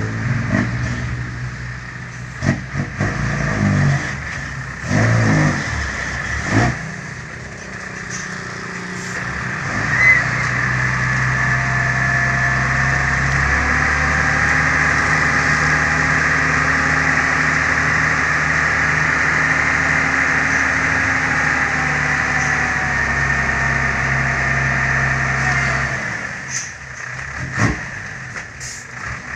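Six-wheel dump truck's engine running, with a few knocks in the first seconds. About ten seconds in the engine rises to a raised, steady speed and holds there for some fifteen seconds, then drops back near the end.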